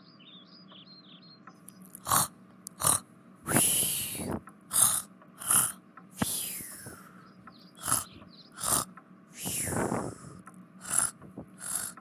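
Snoring of a sleeping baby, a cartoon sound effect: about a dozen breathy snores in irregular succession, some with a falling whistle, starting about two seconds in. Birds chirp faintly before the snoring begins.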